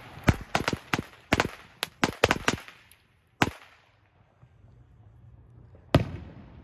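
A string of firecrackers going off: about a dozen sharp pops in quick, irregular succession for the first two and a half seconds. One more pop follows, then a single louder bang about six seconds in.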